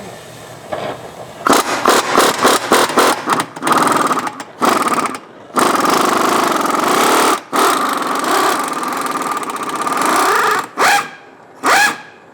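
Impact wrench hammering on a seized suspension bolt that has just been heated to free it. It starts with a string of short trigger bursts about a second and a half in, then runs steadily for several seconds, and ends with two short blips near the end.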